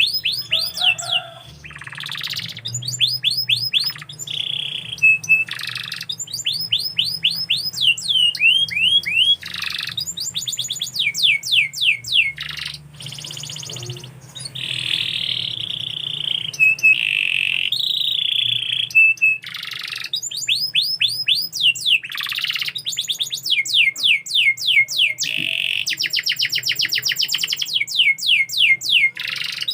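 Domestic canary singing: fast rolling trills of quick falling notes, broken now and then by short buzzy held notes, with only brief pauses.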